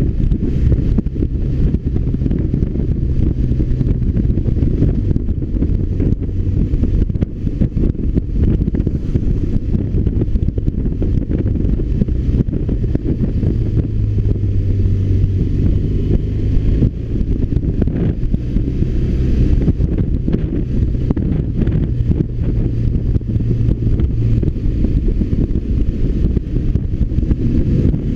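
BMW R1200RT motorcycle's boxer-twin engine running steadily on a downhill ride, its low note shifting a little now and then, with wind rushing over the microphone.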